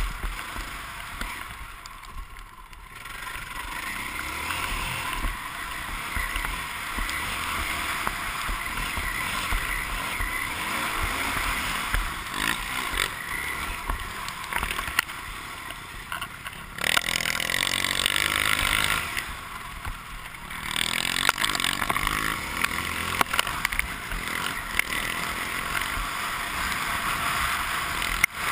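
A dirt bike's engine running hard under the rider as it races over a motocross track. It revs up and eases off with the throttle, dropping back briefly a couple of times and pulling hard again.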